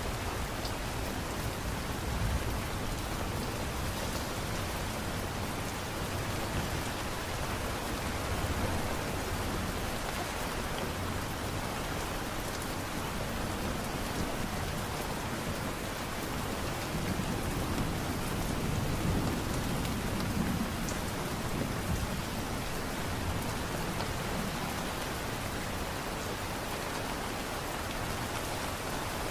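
Steady light rain, an even patter and hiss, with a low rumble swelling and fading about two-thirds of the way through.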